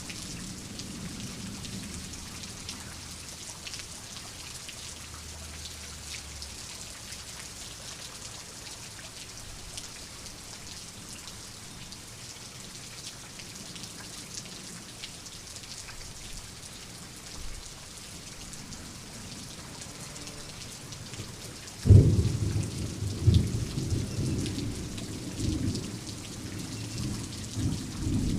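Steady rain falling, with a low thunder rumble dying away at first. About three-quarters of the way through a sudden loud thunderclap cracks, followed by rolling rumbles.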